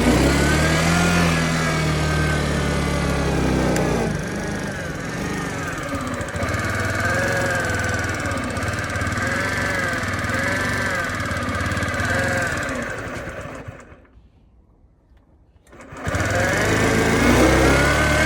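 Honda Smart Dio AF56 scooter's 49 cc four-stroke single-cylinder engine running, its speed rising and falling a little. About 14 seconds in it stops, and after about two seconds of near quiet it runs again.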